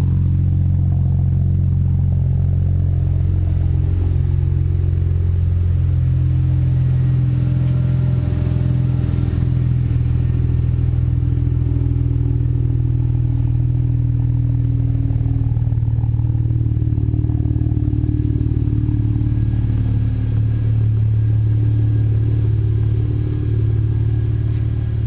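BMW 335i's twin-turbo straight-six idling steadily through a 3.5-inch stainless steel aftermarket exhaust, shortly after a cold start, the engine still warming up.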